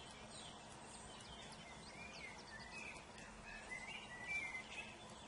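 Small birds singing: a run of short, high chirps and warbled notes, loudest about four seconds in, over a faint steady background hiss.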